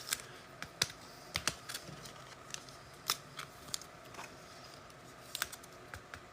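Trading cards being handled on a table: irregular light clicks and taps, a dozen or so scattered over a few seconds.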